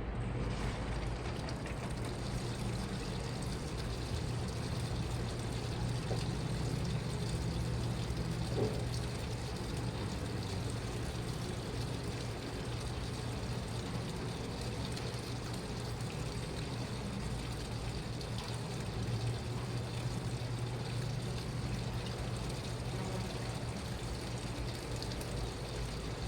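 Washing machine running with a steady low motor hum and the sound of water pouring and moving in the drum.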